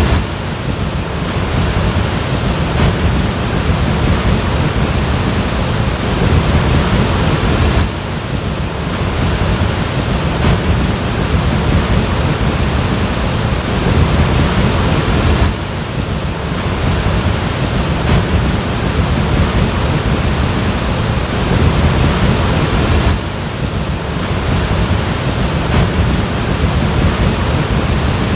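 Loud, steady rush of floodwater, with heavy wind noise on the microphone. It dips briefly about every eight seconds.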